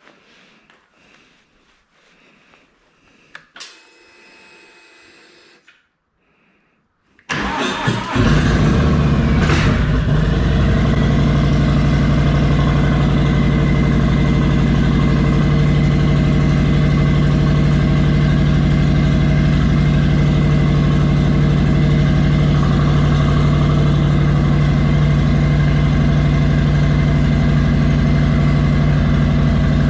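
A click and a brief faint whir. About seven seconds in, a Harley-Davidson Low Rider S's Milwaukee-Eight 114 V-twin is cranked and starts, then settles into a steady idle.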